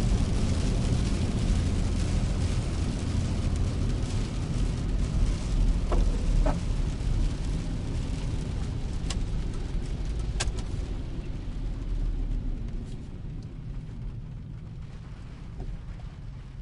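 Car driving in the rain: a steady low rumble of engine and tyres on a wet road under a hiss of rain and spray. A couple of sharp clicks come in the middle, and the hiss and overall level fall away gradually in the last few seconds.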